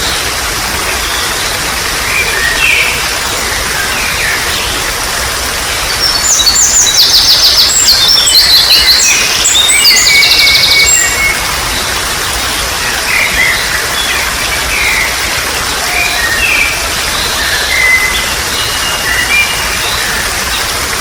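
Water trickling and splashing steadily with several wild birds calling and chirping over it. About six seconds in, a loud, rapid trilling song runs for several seconds before the shorter chirps return.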